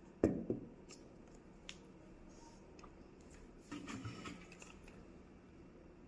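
Handling of multimeter probes and an IGBT module: a sharp knock just after the start, a few scattered light clicks, then a cluster of small taps about two-thirds of the way through.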